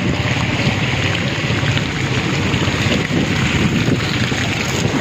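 Heavy rain falling steadily, with wind buffeting the microphone in a low, fluttering rumble.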